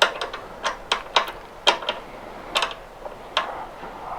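About seven sharp, irregularly spaced clicks and light taps of hard metal parts being handled and set down on a work table.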